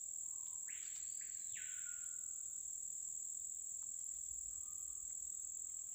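Steady high-pitched insect chorus from the rainforest. About a second in, a bird gives one loud whistled call, two quick rising notes then a long falling slur, the call of the screaming piha (capitão-do-mato).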